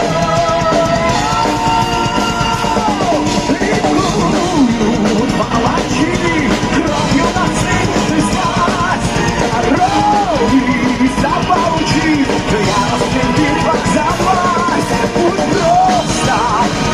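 Heavy metal band playing an instrumental break: a melodic lead line with bending, gliding notes over driving drums and bass.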